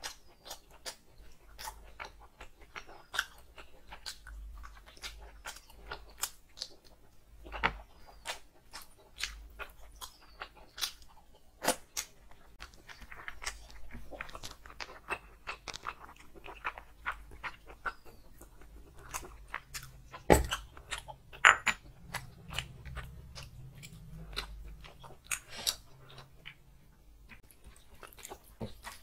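Close-miked chewing and lip smacking of a person eating rice and curry by hand, with crunchy bites and many short, sharp mouth clicks. The loudest clicks come about twenty seconds in.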